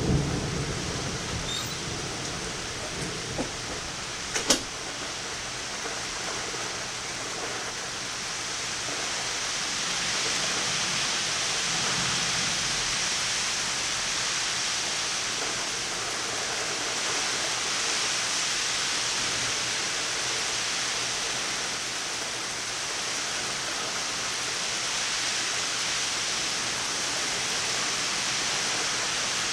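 Rain pouring down steadily in a thunderstorm, a continuous hiss that grows a little heavier about ten seconds in. The last of a thunder rumble dies away at the start, and there is one sharp click about four and a half seconds in.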